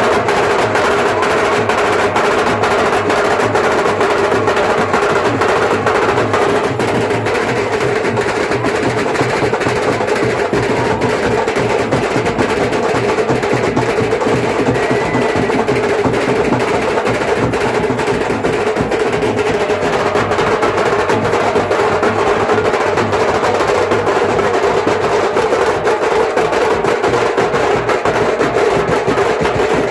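Adivasi band music, played loud and fast on drums and percussion, with a steady held note underneath; two bands play against each other in a face-off.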